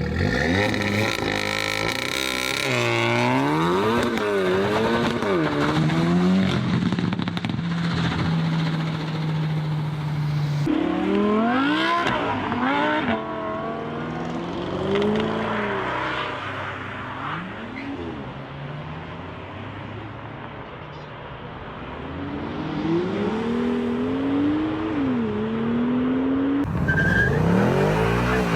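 Car engines revving hard, their pitch climbing and falling again and again, with one note held steady for a couple of seconds; the sound jumps abruptly between different cars several times.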